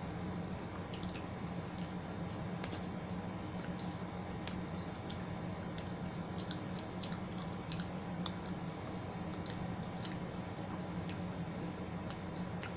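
Close-miked eating sounds: chewing with many short, irregular mouth clicks, over a steady low hum.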